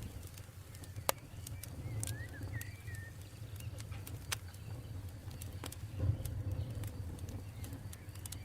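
Campfire crackling with scattered sharp pops, the loudest about a second in and another a little past four seconds, over a steady low rumble. A bird chirps a few times around two to three seconds in.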